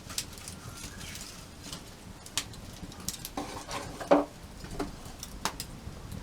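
Wood campfire crackling with scattered sharp pops, and a louder clatter about four seconds in.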